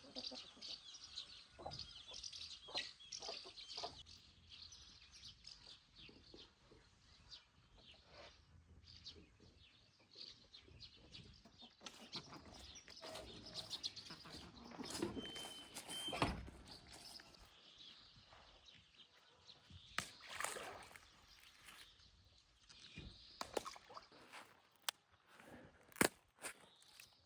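Small birds chirping and twittering, thickest in the first several seconds, with a short whistled note about halfway through. Scattered sharp knocks and clicks are heard throughout, the loudest two about halfway and near the end.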